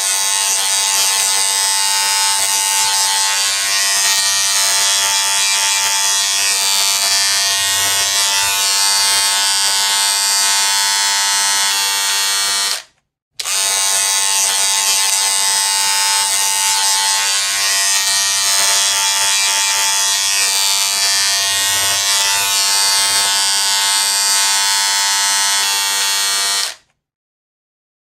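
A steady electric buzz, even and unchanging. It cuts out for a moment about halfway through, then starts again for as long as the first stretch.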